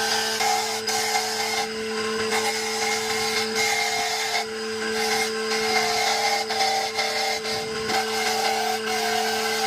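Electric power tool running with a steady motor hum while working wood, the rough cutting or sanding sound rising and easing every second or so as it bears on the workpiece.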